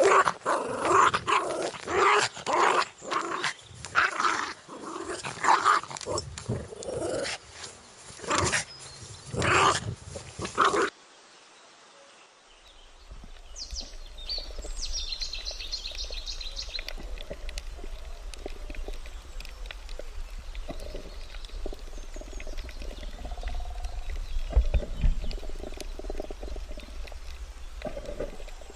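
A dog barking and growling in loud, irregular bursts. After an abrupt cut about 11 seconds in, a steady low rumble follows, with a short run of faint high chirps.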